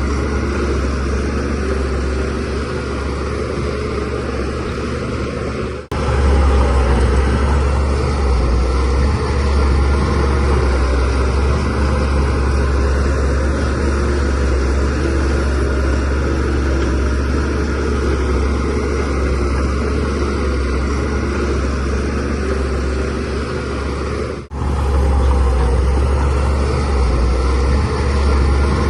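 DH17C3 bulldozer's diesel engine running with a steady, deep drone. The sound drops out for an instant twice, about six seconds in and again near the end.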